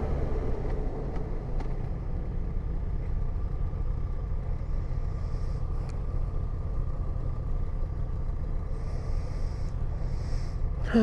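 Yamaha motorcycle engine running at a steady pace while riding: an even, low rumble.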